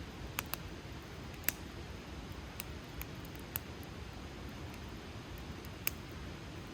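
Wood fire crackling: about seven sharp pops and snaps of burning wood at irregular intervals, the loudest about a second and a half in and near the end, over a steady low background of the burning fire.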